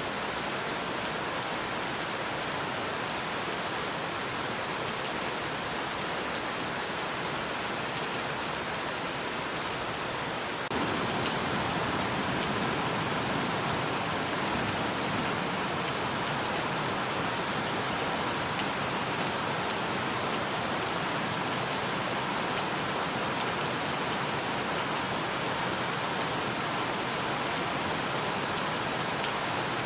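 Steady rain falling, an even hiss of many drops. About ten seconds in it abruptly becomes a little louder and fuller.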